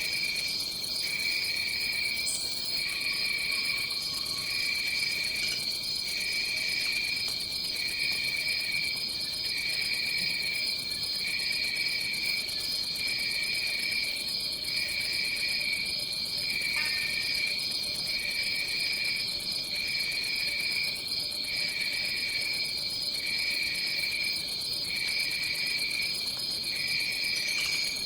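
Night chorus of jungle insects: a continuous high, fast trill, with a lower chirping call that repeats about once a second over a soft background hum of more distant calls.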